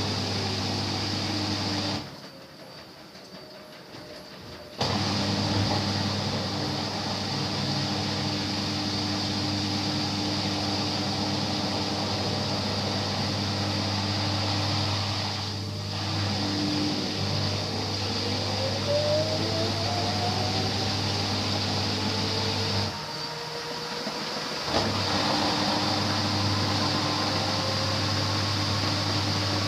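LG washing machine in its spin cycle: a steady motor hum with a whine that falls at first, then rises steadily through the second half as the drum speeds up. The sound drops away twice for about two seconds.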